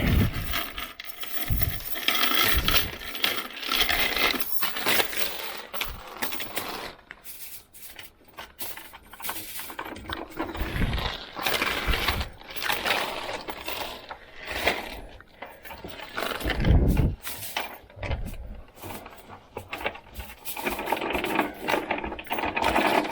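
Small metal chain rattling and clinking in irregular bursts as it is fed down into a hollow wall cavity to fish a wire.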